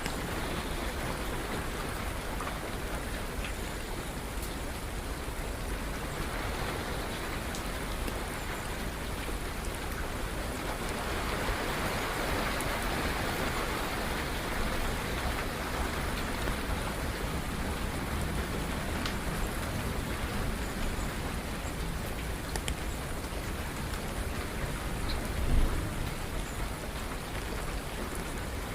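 Steady rain falling, growing heavier for several seconds in the middle. There is a brief low thump near the end.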